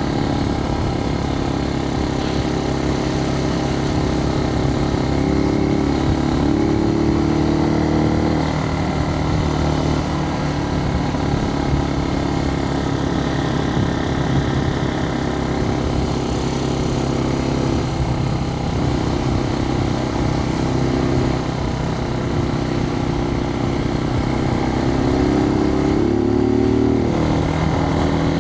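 Suzuki TU250X's air-cooled single-cylinder engine running under way, heard from inside the rider's helmet over a steady hiss of wind. Its pitch rises and falls with throttle and gear changes, climbing as it accelerates near the end.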